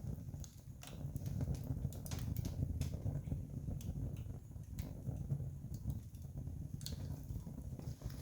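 Wood campfire crackling: irregular sharp snaps and pops over a steady low rumble.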